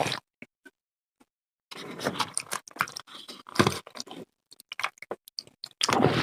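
Close-miked eating sounds of curry udon: wet chewing and smacking clicks, with a longer run of dense mouth noise between about two and four seconds in and a louder burst of it near the end.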